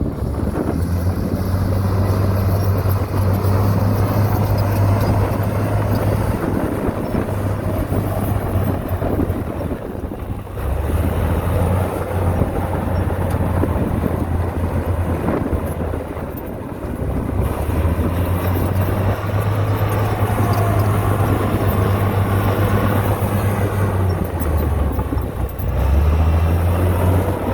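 Heavy diesel engine of earthmoving machinery running under changing load, its low drone stepping up and down in pitch, easing briefly about ten seconds and again about sixteen seconds in.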